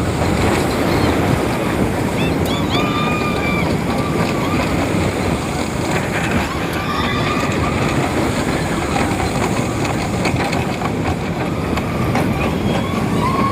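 Intamin suspended looping coaster train running through its course, heard on board: a steady loud rush of wind and track noise. Several times, short high tones rise and fall over it.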